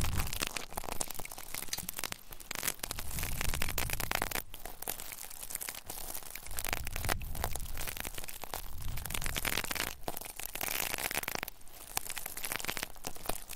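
Close, dense crackling and scratching against the ears of a 3Dio binaural microphone, with occasional low rubbing rumbles: ASMR triggers worked right on the mic.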